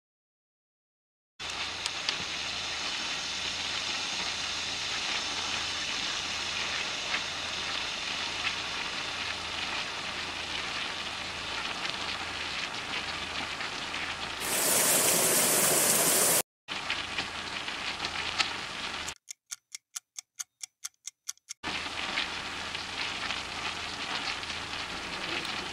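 Food frying in hot oil in a kadai: a steady sizzle. About two seconds of louder, brighter hiss come near the middle, and a few seconds of rapid, choppy pulsing follow a little later.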